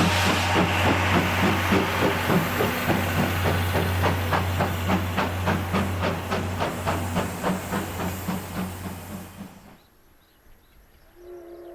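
Steam locomotive working, its exhaust chuffing in a quick regular rhythm over steam hiss, fading out about ten seconds in. Near the end a locomotive whistle starts to sound, a held chord-like tone.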